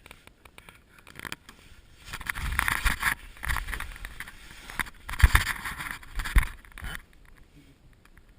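Rustling and scraping close to the microphone with several dull knocks, in irregular bursts for about five seconds, then quieter again.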